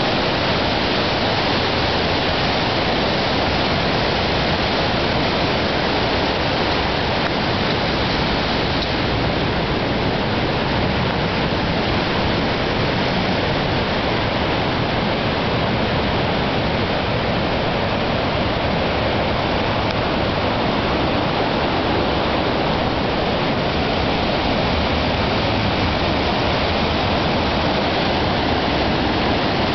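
Mountain stream in flood, swollen almost to the crest by rain and sleet: a steady, loud rush of muddy water.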